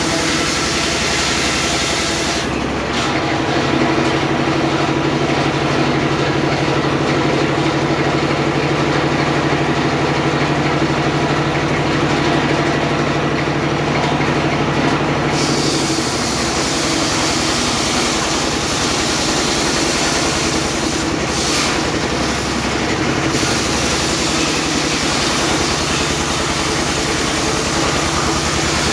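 Engine-driven homemade circular sawmill running steadily. Its note shifts about three seconds in and again about sixteen seconds in.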